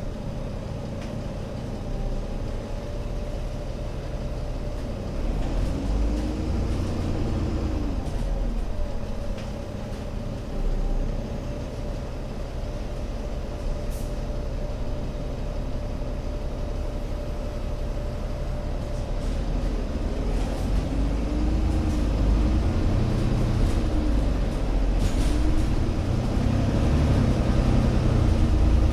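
Alexander Dennis Enviro500 MMC Euro 6 double-deck bus engine running under way, a steady low rumble. A whine rises and falls in pitch about six seconds in and several times more in the second half, growing louder toward the end.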